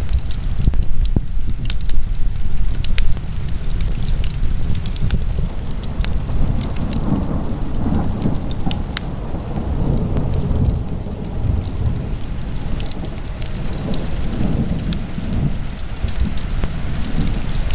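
Wood fire burning in a fireplace, crackling with many sharp pops over a steady low rumble.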